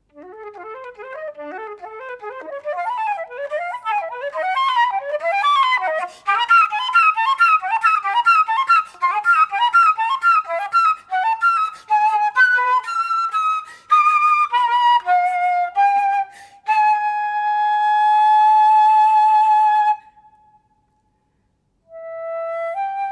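Unaccompanied flute playing fast runs of notes that climb in pitch and grow louder. These lead into a long high held note with vibrato, which breaks off about 20 seconds in. After a short silence, a new phrase begins near the end.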